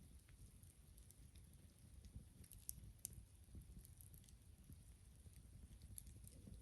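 Wood fire burning faintly, with sparse small crackles and pops over a low rumble.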